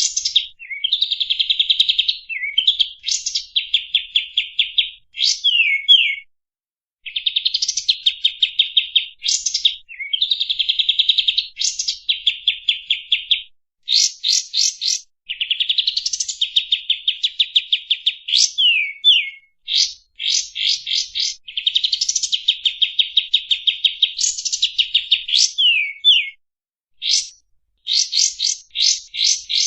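Kapas tembak songbird singing: long, fast trills of rapidly repeated notes broken by quick rising and falling sweeps, in bursts of a few seconds with brief pauses between.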